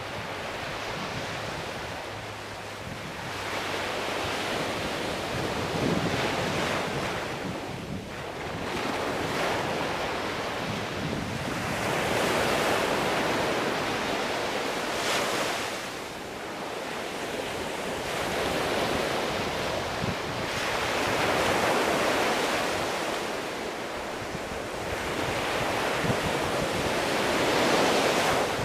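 Sea waves breaking and washing on a shore, the surf swelling and fading every few seconds.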